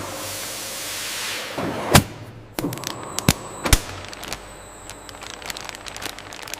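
Machinery clatter: a hiss that fades over the first second and a half, then a sharp crack about two seconds in, two more sharp knocks soon after, and a run of lighter ticks.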